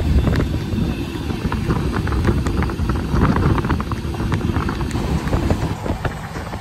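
Passenger train running at speed: a steady low rumble of wheels on the track with frequent irregular clicks and rattles, and wind on the microphone.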